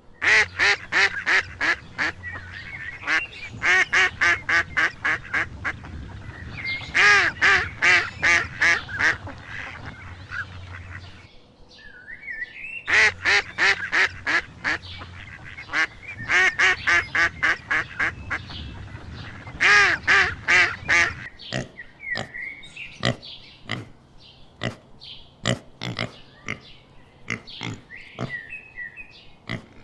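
Ducks quacking in fast runs of short calls, several a second, with a brief break about eleven seconds in; the calls become sparser and more scattered in the last third.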